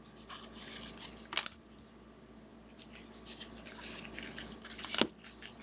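Packaging of a football trading card box being opened and handled: irregular crinkling and rustling, with two sharp snaps, one about a second and a half in and a louder one near the end.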